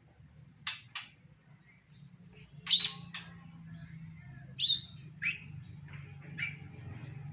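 Oriental magpie-robin (kacer) singing a song laced with mimicked phrases: scattered sharp, clicky notes and short whistles at uneven intervals, over a faint low steady hum.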